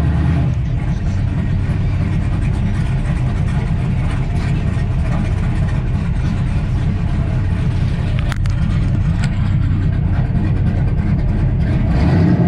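A classic Mopar muscle car's engine running, loud and steady with a deep low rumble, and a short click about eight seconds in.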